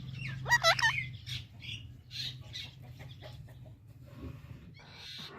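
Birds calling: a quick run of sharp, hooked calls about half a second in, then scattered shorter calls over a low steady hum.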